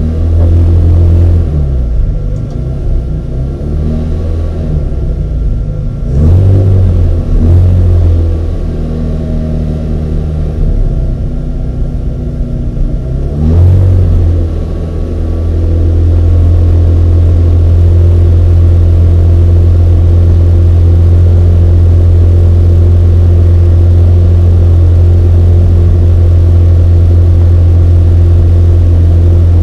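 Mini race car engine running, rising and falling in pitch with several dips in level for roughly the first fourteen seconds, then holding a steady, loud drone.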